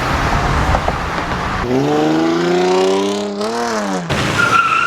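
Car doing a burnout: the engine is held at high revs, its pitch climbing for about two seconds and then dropping off, over a dense rush of tire and exhaust noise. Near the end the spinning tires give a steady high squeal.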